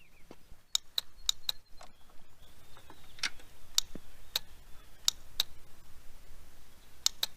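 Sharp metallic clicks at uneven intervals, then a quicker run of about six clicks a second near the end.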